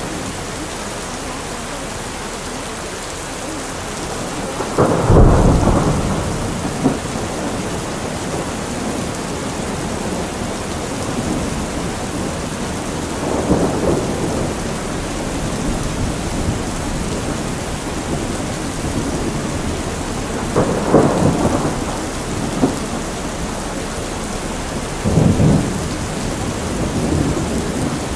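Steady rain with rolls of thunder, about five, thirteen, twenty-one and twenty-five seconds in; the first is the loudest.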